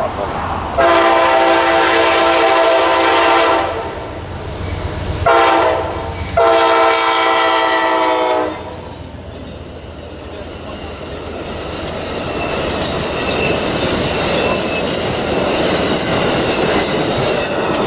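Freight locomotive's multi-chime air horn sounding a long blast, a short blast and another long blast. The train then approaches and passes, its rumble building and its wheels clicking over the rail joints.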